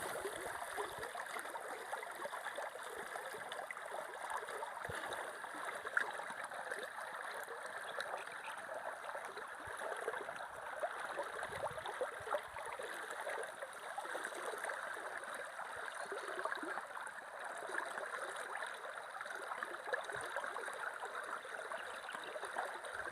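Running river water flowing and burbling steadily.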